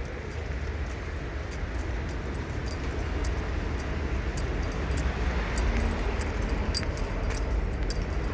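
Steady low rumble and noise of passing vehicles, with faint light clicks and rattles.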